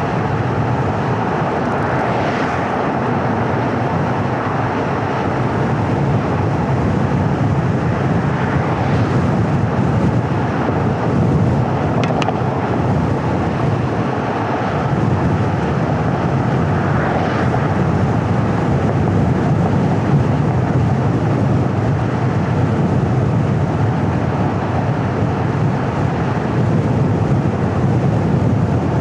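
Steady road noise of a car driving: tyres on pavement and wind, with a few faint swells that come and go.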